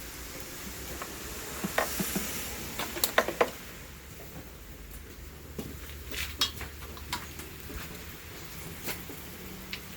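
Small metal clicks and clinks of hand tools and engine parts being handled, in a cluster about two to three seconds in and a few more around six to seven seconds.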